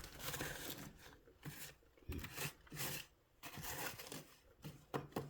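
Paper being crumpled and torn by hand: a string of short, irregular crinkling and tearing bursts.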